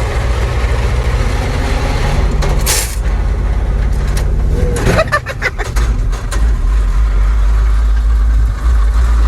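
Old three-ton truck's engine running with a heavy low rumble. A short hiss comes about three seconds in, and a few sharp knocks follow around five to six seconds in.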